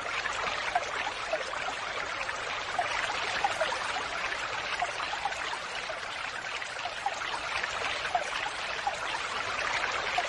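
Falling water splashing steadily, with scattered small plinks of drops and bubbles through it.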